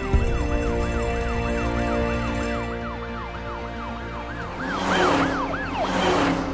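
Fire engine siren in a fast yelp, its pitch rising and falling about four times a second, over a low engine rumble and background music. Near the end come two loud whooshes.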